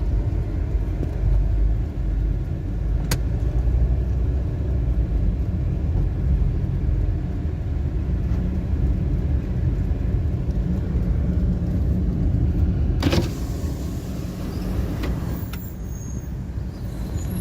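Steady low rumble of a moving car's engine and road noise, heard from inside the vehicle. There is a brief click about three seconds in, and a louder burst of noise around thirteen seconds, after which the rumble eases slightly.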